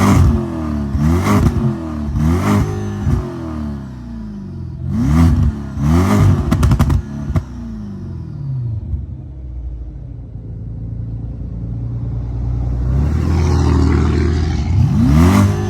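Car exhaust through Borla ProXS mufflers, with the resonator still fitted, revved in a series of quick throttle blips. The revs rise and drop sharply several times, then climb slowly and hold before one more quick blip near the end. A short run of sharp clicks comes around seven seconds in.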